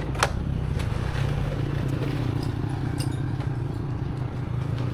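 Small single-cylinder motorcycle engine, the restored Honda Dream's four-stroke, running steadily, with a sharp click just after the start.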